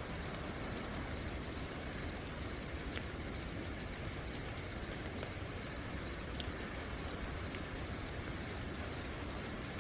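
Steady rain falling, an even hiss with a few single drop ticks, and crickets chirping in a thin, steady high tone over it.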